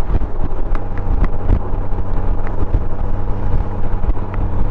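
Honda Gold Wing motorcycle running steadily at road speed, its engine hum under rushing wind on the microphone.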